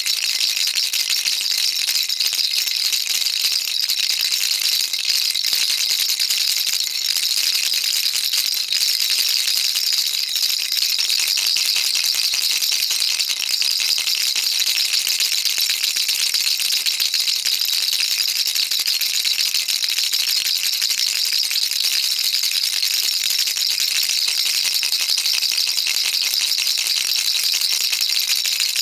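Baby rattle shaken continuously, its beads making a dense, even, high-pitched patter of small clicks with no pauses.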